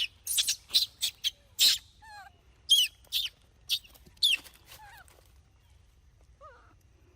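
A quick run of shrill, high-pitched squeaks and chirps, then several short calls that fall in pitch, growing fainter toward the end.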